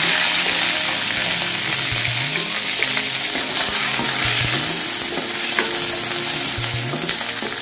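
Prawn heads sizzling as they stir-fry in a little hot oil in a wok, with a wooden spatula scraping the pan. The sizzle starts loud at once and eases off a little.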